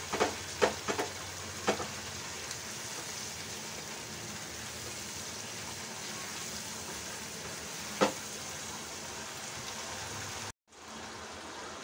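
Spice masala with yogurt sizzling steadily as it fries in a non-stick kadai. A silicone spatula knocks and scrapes against the pan a few times in the first two seconds and once more about eight seconds in. The sound drops out for a moment near the end.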